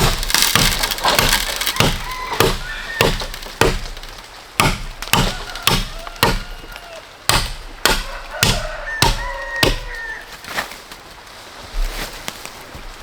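A blade chopping bamboo: a long run of sharp, woody strikes, roughly two a second with short pauses.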